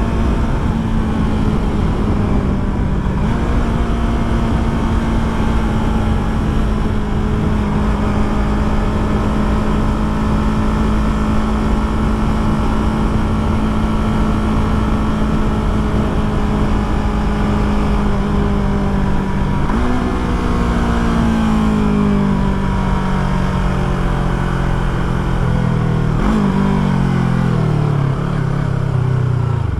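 Yamaha YZF-R3 parallel-twin engine at a steady cruise, then slowing with two downshifts: the revs jump up about twenty seconds in and again a few seconds later, each time falling away as the bike decelerates. Low wind rumble on the microphone underneath.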